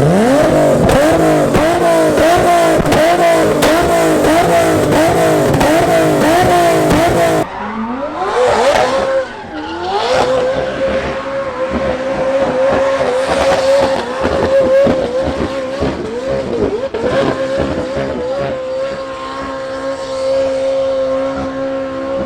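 High-performance car engine revving hard in quick repeated rises and falls, about two a second. It stops abruptly, and an engine then revs up and holds a steady high rev with small dips.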